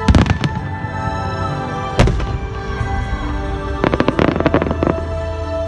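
Aerial fireworks bursting over steady music: a quick cluster of bangs at the start, one loud bang about two seconds in, and a rapid run of pops about four seconds in.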